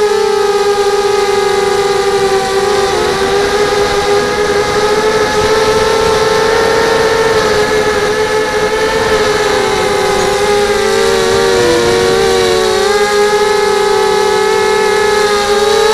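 FPV quadcopter's motors and propellers whining steadily as it flies, the pitch wavering and dipping briefly about three seconds in and again around eleven to twelve seconds.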